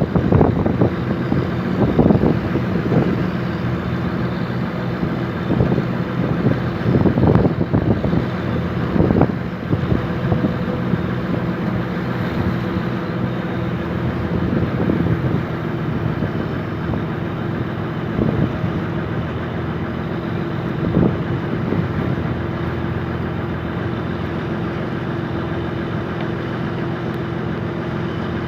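Fishing boat's engine running steadily, with wind buffeting the microphone in gusts during the first ten seconds or so.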